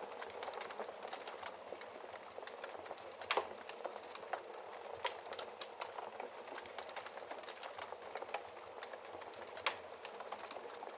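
Wood fire crackling in a fireplace: a steady hiss of burning with frequent sharp pops and snaps, the loudest about three seconds in and again near the end.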